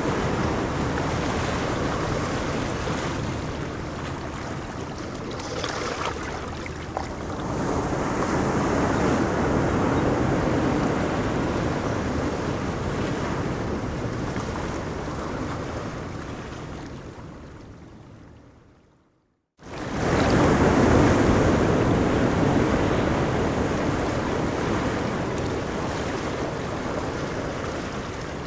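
Ocean waves breaking and washing on a beach, a steady rushing surf that swells and eases. About two-thirds of the way through it fades away to silence, then comes back suddenly at full strength, as at a splice in a looped recording.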